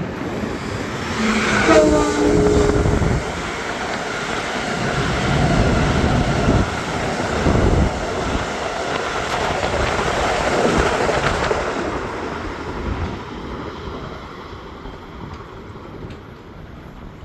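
Long Island Rail Road train passing at speed: a loud rumble of wheels on rail swells, holds, and fades away after about twelve seconds. A short blast of the horn sounds near the start.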